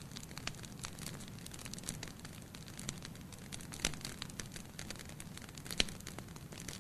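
Wood fire crackling in a fireplace: a steady low hiss of burning with frequent small snaps and a couple of sharper pops, one about four seconds in and a louder one near six seconds.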